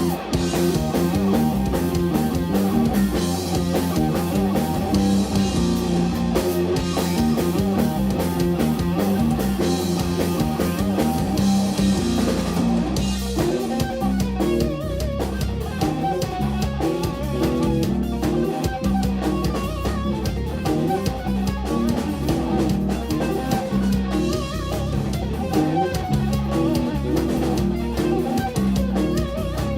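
Live instrumental rock-fusion band playing: electric guitar lines over bass guitar and a drum kit.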